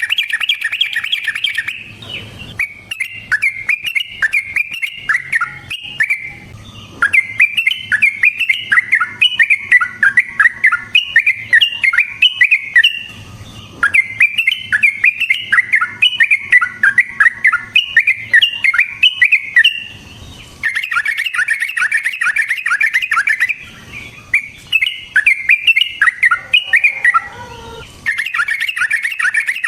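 Yellow-vented bulbul (trucukan) singing long, rapid runs of bubbling, chattering notes. The song comes in phrases several seconds long, broken by short pauses.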